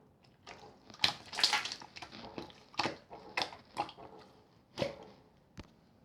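Clear slime being played with by hand, giving irregular wet, sticky squelches and clicks.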